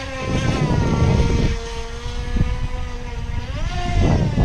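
Top Race TR-1200 RC speed boat's electric motor whining steadily at speed. The whine dips slightly in pitch in the first second and climbs again about three and a half seconds in as the motor speeds up. Bursts of low rumble from wind on the microphone come in twice.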